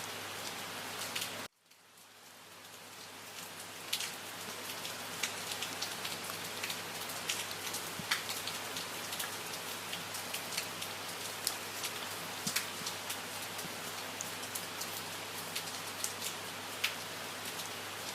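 Steady rain falling, with many separate drops ticking sharply over an even hiss. About a second and a half in, the sound cuts off suddenly and fades back in over a couple of seconds.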